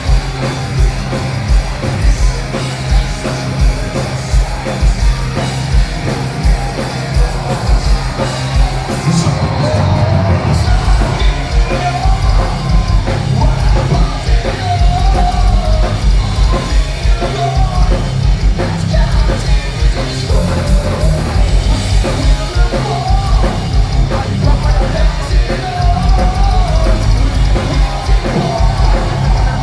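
Live heavy metal band playing loudly: distorted guitars and fast, pounding drums, with shouted and sung vocals over them.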